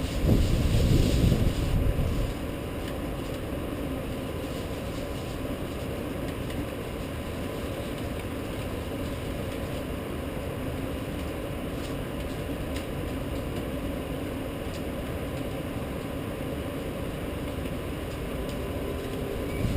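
Steady rushing noise of a rainstorm over a city. A louder low rumble fades out over the first two seconds.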